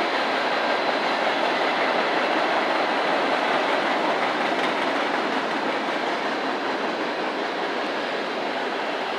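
A train's cars rolling past on the rails, a steady running noise with wheel clatter that eases slightly near the end.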